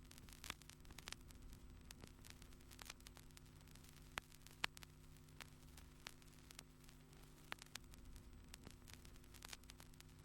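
Near silence: a faint steady hum with scattered small ticks and clicks.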